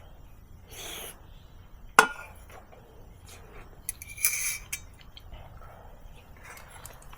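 Tableware clinking during a meal: one sharp, loud clink about two seconds in, a short clatter a little after four seconds, and a few lighter taps and scrapes.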